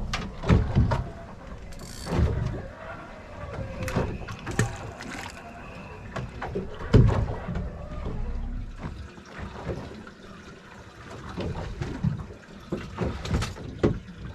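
Water sloshing around a boat, with irregular low thumps and knocks.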